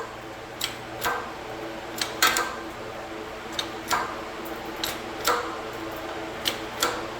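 Hand-pumped hydraulic bottle-jack shop press being worked to push out a suspension bushing: a pair of sharp metallic clicks with each stroke of the pump handle, about every second and a half. A steady low hum runs underneath.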